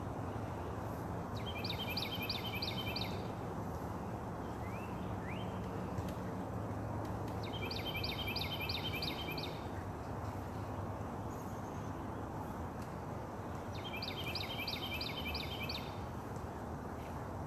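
A songbird sings the same short phrase of five or six rapidly repeated high notes three times, about six seconds apart, over a steady outdoor background hiss.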